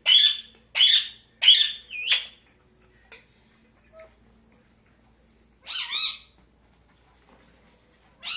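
Pet parakeet screeching: four harsh calls in quick succession, then a single call about six seconds in.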